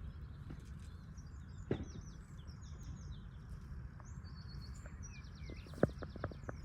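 Small birds singing: repeated high chirps and fast trilled phrases over a low steady rumble, with a sharp click early on and a few more clicks near the end.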